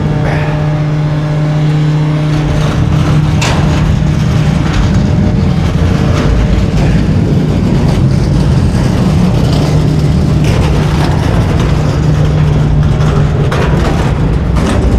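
Garbage truck's diesel engine running steadily at raised speed to drive the packer hydraulics, with a few sharp cracks of bulky waste breaking under the packer blade.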